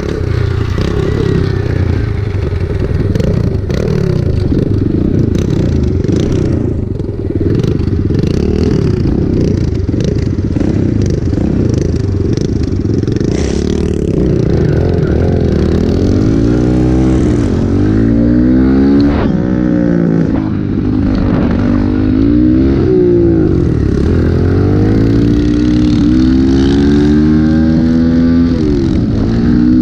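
Pit bike engine being ridden hard, revving up and down repeatedly with its pitch rising and falling every second or two, with rattling and scraping along the way.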